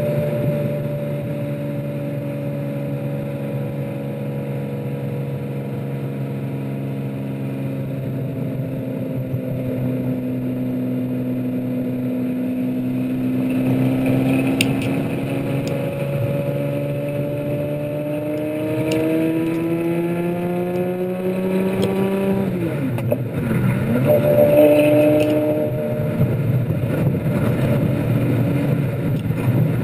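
Lamborghini Murcielago V12 engine heard from a body-mounted camera, cruising steadily, then pulling harder from a little before halfway with its pitch climbing for several seconds. The revs drop sharply about three-quarters of the way in, then the engine settles back to a steady cruise.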